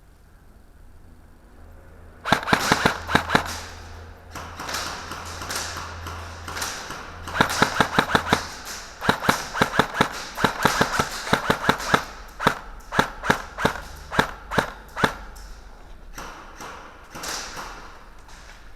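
Airsoft guns firing in rapid strings of sharp pops, starting about two seconds in and dying away after about fifteen seconds, with a few fainter shots near the end.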